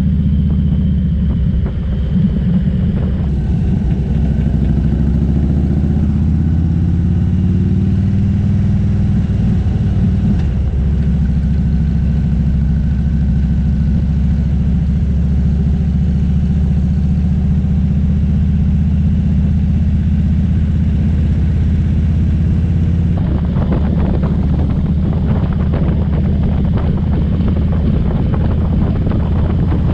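Motorcycle engine running under way, a steady low exhaust note that rises a little in pitch a few seconds in and then holds at cruising speed, with wind rushing past the microphone that gets stronger near the end.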